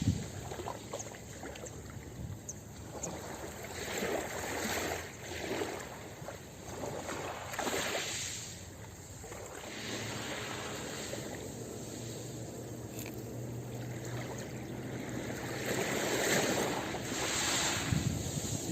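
Ocean waves washing onto a beach, the rush of surf swelling and fading every few seconds.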